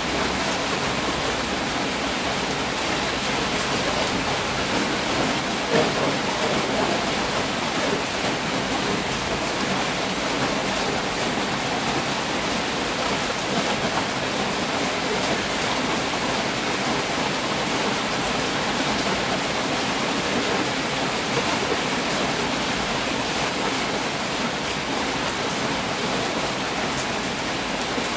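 Heavy rain falling steadily, an even hiss, with a single brief tap about six seconds in.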